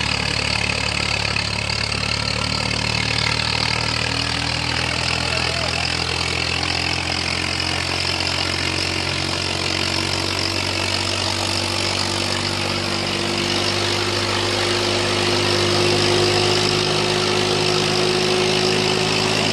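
Swaraj 855 tractor's diesel engine running steadily, its pitch creeping slightly higher and a little louder over the last few seconds.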